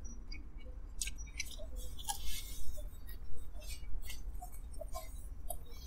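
Quiet eating sounds: chewing and small mouth clicks, with brief crinkles from fast-food paper packaging, over a steady low hum.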